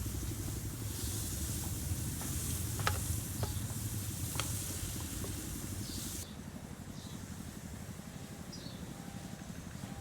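Food sizzling in a hot pan, with a steady hiss and a few sharp crackles; the hiss drops away abruptly about six seconds in.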